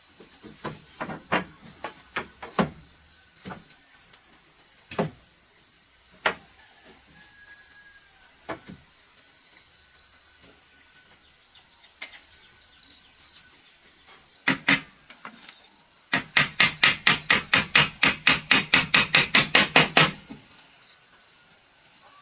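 Hammering on wood: scattered single knocks at first, then a fast, even run of about twenty blows, around five a second, lasting about four seconds.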